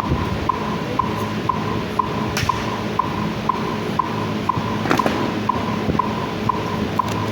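Metronome beeping steadily at two beats a second, keeping time for a silent drill team's movements, with a few sharp slaps of the drill heard over it, about two and a half and five seconds in.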